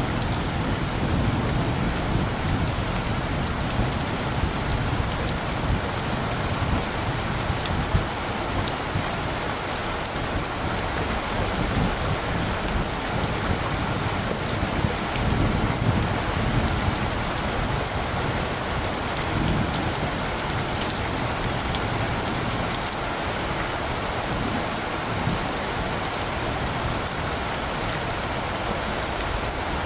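Steady rain falling, with many close drops ticking over a low rumble that swells and fades.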